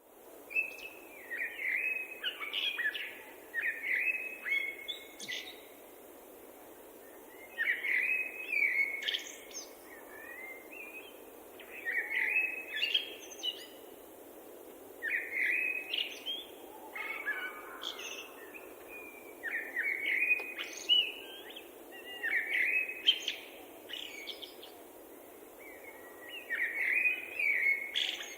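Songbird singing: phrases of quick chirps and warbling notes, each about two seconds long, repeated every few seconds over a steady low hiss.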